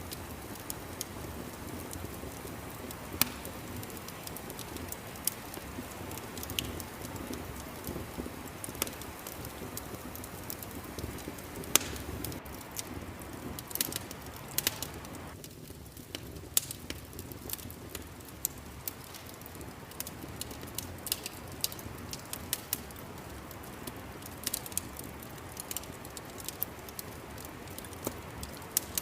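Wood fire crackling in a fireplace: a steady low rush with frequent irregular sharp pops and snaps, a few of them louder than the rest.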